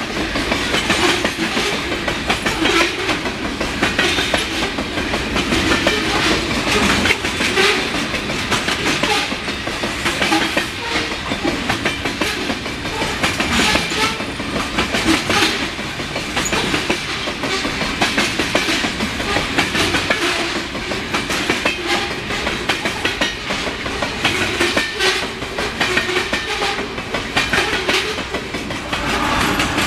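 Freight train cars rolling past, their steel wheels clicking over the rail joints in a steady, unbroken run.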